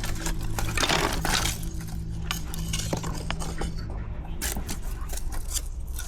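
Dishes and utensils clinking and knocking in a string of short sharp strikes, over a steady low hum that stops about four seconds in.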